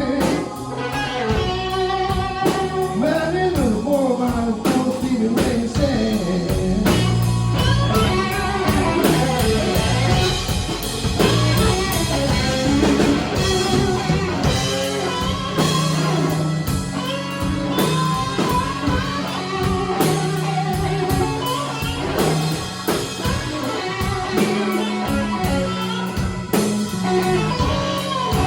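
A live blues band playing a slow blues, with an electric guitar taking a lead full of bent notes over bass and a drum kit.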